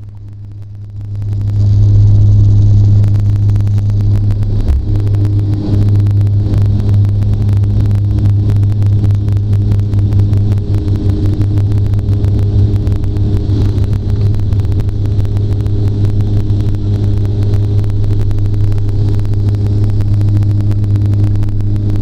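Aircraft engines droning steadily, heard from inside the cabin, swelling about one to two seconds in as power comes up and then holding level.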